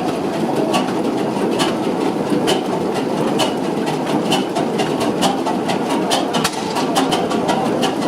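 Vintage engine running steadily, with a sharp click repeating a little faster than once a second over a constant mechanical din.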